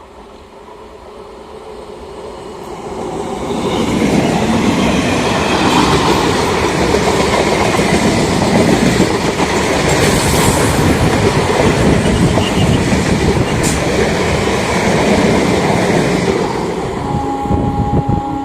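A train passing at speed close by, its wheels clattering over the rails. It grows louder over the first few seconds, stays loud for about twelve seconds, then begins to fade. Near the end a steady train horn starts to sound.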